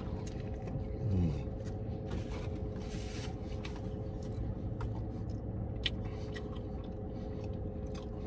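A man biting into a burger and chewing it, with small wet clicks and smacks of the mouth, over a steady low hum inside the car. About a second in, a brief falling hum comes from his throat.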